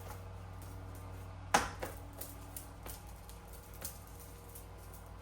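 Hands pressing and patting dough flat on a floured mat. There is one sharp thump about a second and a half in, then a few lighter taps, over a steady low hum.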